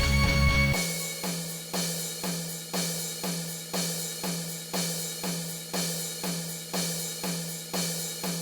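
Rock song whose full band drops out about a second in, leaving the drum kit alone playing a steady beat of about two hits a second, with cymbals.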